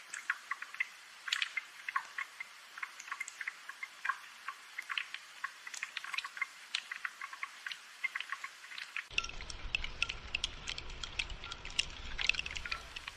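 Rain dripping: many irregular drops ticking onto surfaces in a dense, uneven patter. A low rumble joins abruptly about nine seconds in.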